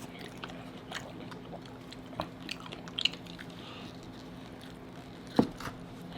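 Close-miked chewing and biting of crunchy Taco Bell tacos, with scattered short crunches and one louder knock about five seconds in.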